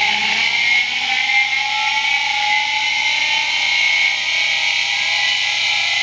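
Small electric motor with noisy ball bearings running at speed just after spinning up: a steady whine made of several high tones that waver slightly, over a hiss.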